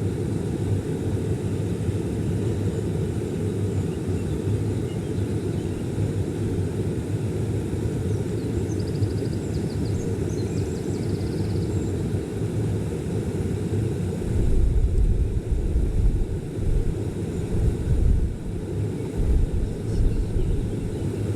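A small stream's water rushing steadily. About two-thirds of the way through, wind starts buffeting the microphone in low, uneven gusts.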